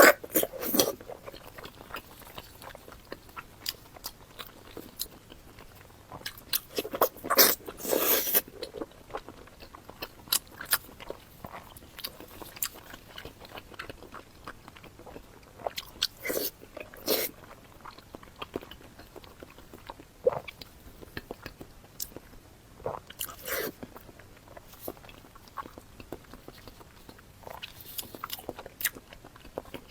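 Close-up eating sounds: a person biting and chewing food, with many small wet clicks and a few louder bites spread through.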